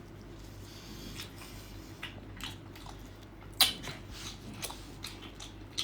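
A person chewing seafood with open-mouth eating sounds: scattered wet smacks and clicks over a low background, the sharpest a little past halfway.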